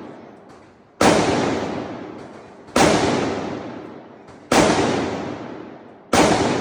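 Four gunshots fired one after another, about one and three-quarter seconds apart, each sharp crack followed by a long echoing decay.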